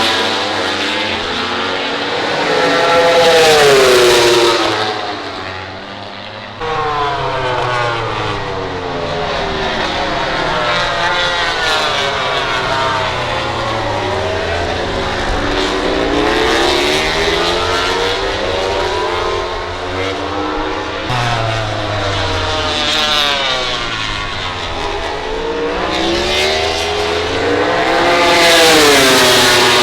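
MotoGP racing motorcycles running on the circuit, their engines rising and falling in pitch through gear changes and passes, with more than one bike often heard at once. The loudest close passes come about three to four seconds in and near the end.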